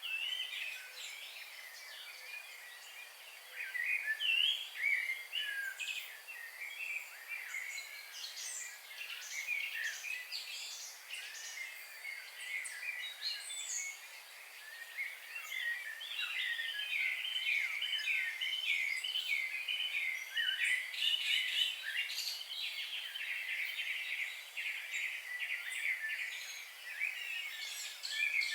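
A chorus of many small birds chirping and trilling together, their calls overlapping densely and growing busier about halfway through, over a faint steady hiss.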